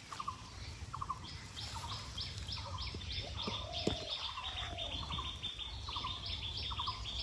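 Birds chirping: a quick series of short high chirps, about two a second, with a lower call repeated between them.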